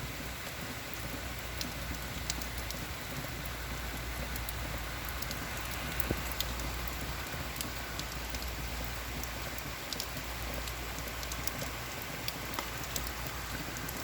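Heavy rain falling steadily, with scattered sharp drop impacts close by.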